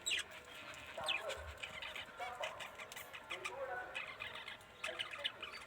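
Budgerigars and finches chirping and chattering, with many quick high chirps overlapping and lower calls every second or so.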